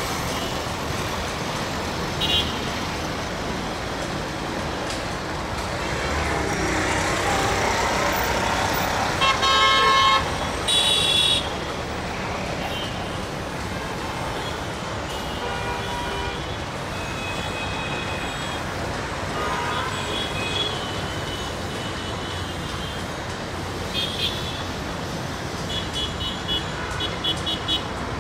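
Steady rumbling noise of a slow-moving diesel-hauled passenger train amid city traffic, with two loud horn blasts about ten seconds in and scattered short, higher honks later.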